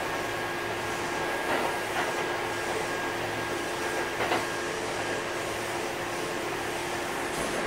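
Inside a Kintetsu 8000-series electric train: steady running noise with a constant hum and whine, broken by a few short knocks about one and a half, two and four seconds in.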